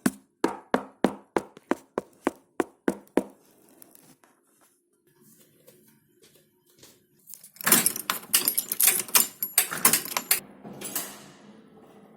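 Knocking on a door: about a dozen evenly spaced knocks, about four a second, then a few seconds later faster, louder knocking lasting about three seconds.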